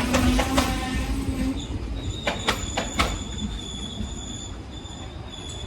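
Train passing on the track: a steady rumble with wheels clicking over rail joints in short groups. From about two seconds in, a thin high ringing squeal sounds over it.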